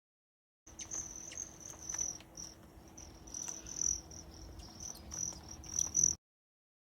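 Crickets trilling: a steady high-pitched chirring with short breaks, over a faint low hum and a few light clicks.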